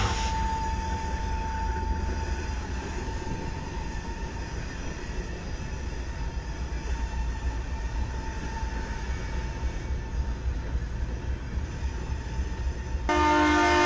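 Freight train's diesel locomotives and cars rolling slowly past, a steady low rumble. About 13 seconds in, a locomotive horn starts to blow, loud.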